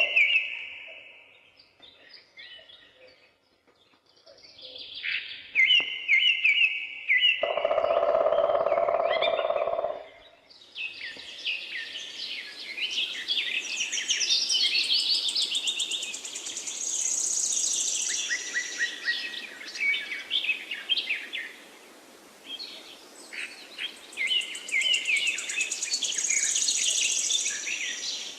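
Songbird singing: repeated chirps, then long runs of rapid high trills from about ten seconds in.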